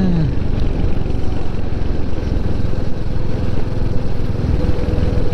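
Motorcycle on the move, its engine running steadily under heavy wind and road noise on a helmet-mounted camera.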